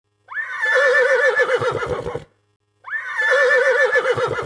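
Horse neighing, the same whinny played twice: each call about two seconds long, rising quickly at the start and then quavering up and down as it fades.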